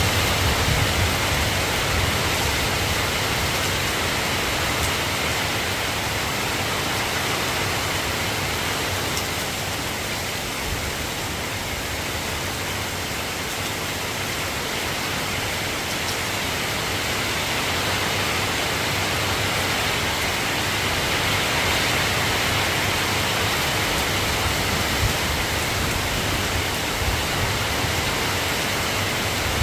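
Steady rain falling, an even hiss without a break. A low rumble of thunder dies away in the first second or so.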